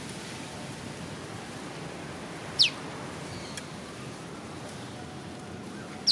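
Prenjak lumut giving its sharp 'piw' call, a quick whistle that sweeps down in pitch, once about two and a half seconds in and again at the very end, with a faint note in between. A steady hiss runs underneath.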